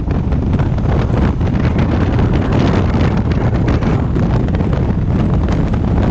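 Loud, steady wind buffeting the microphone on a Honda African Twin motorcycle at riding speed, with the bike's engine running underneath.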